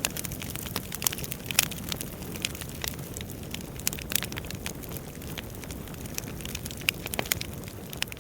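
Wood fire burning in a fireplace: a steady low rush of flames under frequent, irregular sharp crackles and pops of the burning logs, a few of them louder.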